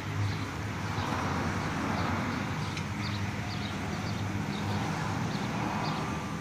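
Big-block V8 with mechanical fuel injection idling steadily, with a faint rise and fall in its note.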